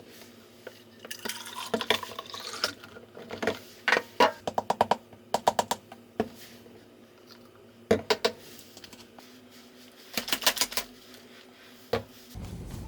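Short runs of quick, light clicks and taps in several bursts, with pauses between them.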